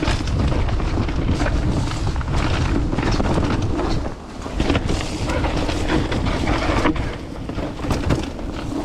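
Wind buffeting the camera microphone during a bike ride on a muddy trail: a steady low rumble with scattered knocks and rattles from the bike.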